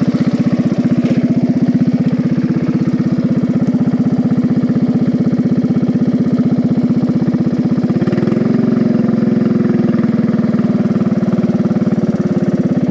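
Homemade riding-mower race/mud mower's small engine running steadily, its note stepping up a little about eight seconds in and then holding.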